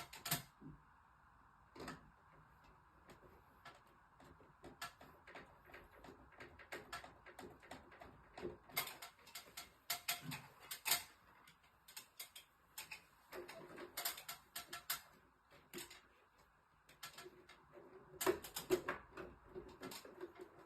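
Irregular light clicks, taps and knocks of small hard objects being handled, over a faint steady hiss, busiest about halfway through and again near the end.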